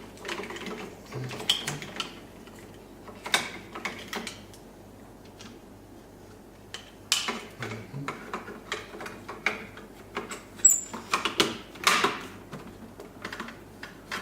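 Plastic parts of a Jura ENA3 coffee spout handled and snapped back together by hand: irregular clicks and knocks with a quieter pause in the middle, the loudest clicks near the end.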